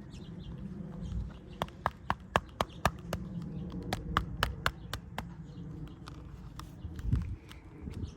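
Sharp, irregular taps and clicks from a motorcycle helmet being handled, coming quickly for a few seconds and then more sparsely.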